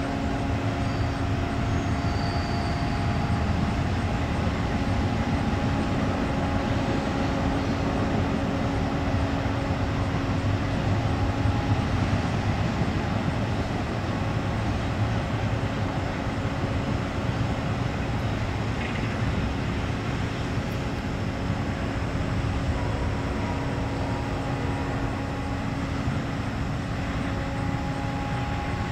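Double-stack intermodal freight train rolling past steadily. A bobtail semi tractor drives by in the middle.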